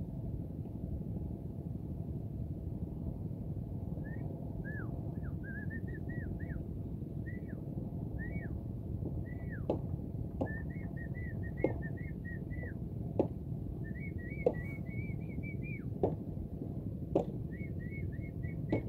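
A small bird singing phrases of short, high chirps and quick trills, beginning a few seconds in, over a steady low rumble. In the second half a sharp click sounds every second or so.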